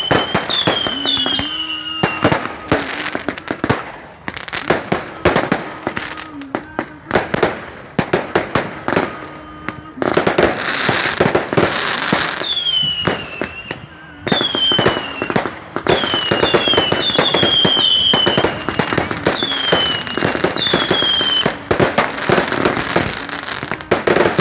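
Fireworks going off in quick succession: a dense run of crackling bangs, with short whistles falling in pitch that repeat every second or so.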